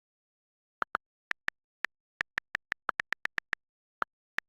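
A quick, unevenly spaced run of short, identical sharp clicks, about seventeen, with dead silence between them.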